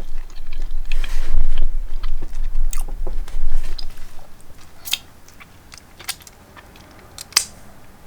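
Biting into and chewing an air-fried turkey wing, its crisped skin crunching. The chewing is dense and loud for about the first four seconds, then quieter, with a few separate sharp clicks.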